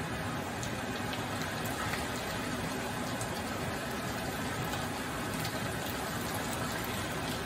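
Diced potatoes and onion frying in plenty of olive oil in a non-stick frying pan: a steady sizzle with small crackles.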